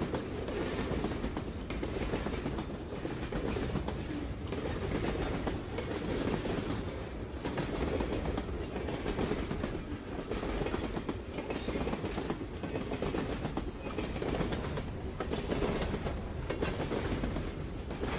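Freight train of boxcars and tank cars rolling past a grade crossing: a steady low rumble with repeated clicks of the wheels over the rail joints.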